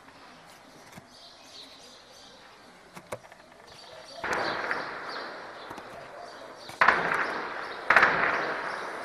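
Distant combat gunfire: three loud sudden reports about four, seven and eight seconds in, each trailing off in a long echo.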